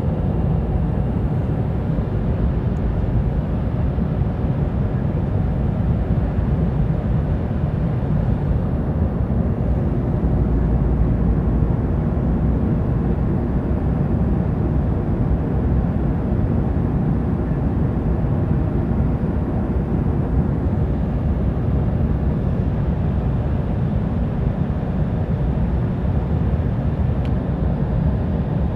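Steady cabin noise inside an Embraer E175 airliner: a low, even rumble of airflow and its two turbofan engines, with no sudden knocks or changes.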